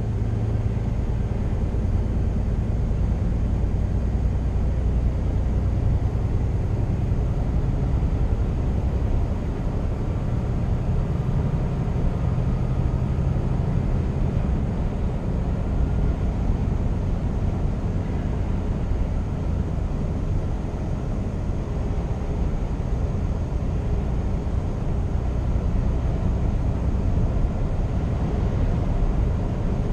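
Scania R490 truck's 13-litre inline-six diesel running steadily while driving, a constant low drone that holds even throughout.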